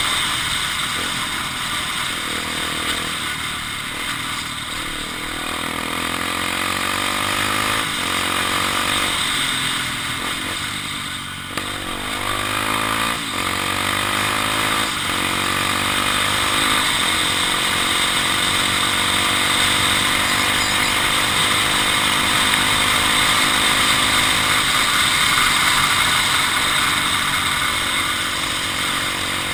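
Honda XR250 Tornado's single-cylinder four-stroke engine running under way, its pitch rising and falling repeatedly as the rider works the throttle and gears, with a short drop in level about a third of the way through.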